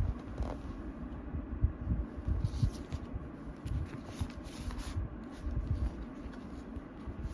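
Hands handling paper and cardboard packaging: light rustling and crinkling with a few brief bursts, over soft irregular low bumps from the box being moved.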